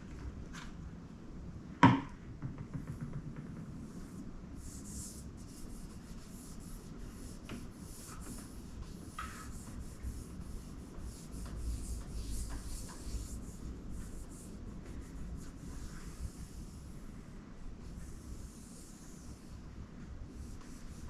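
Repeated hand-rubbing strokes on the fingerboard of a fretless bass, a dry hissing scrub as it is worked smooth with fine abrasive or rubbed with oil wax. A single sharp click or knock about two seconds in.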